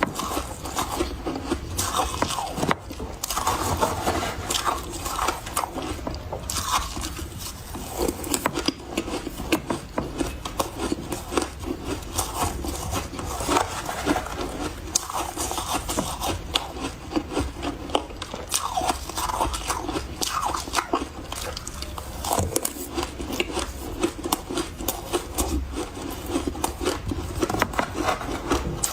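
Close-up chewing of refrozen powdery ice: soft, dense crunching and squeaky crackling, bite after bite.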